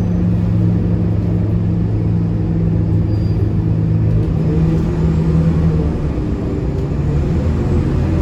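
Scania K230UB city bus's five-cylinder diesel engine running as the bus drives, heard from inside the cabin as a steady rumble. Its steady engine note fades away about halfway through.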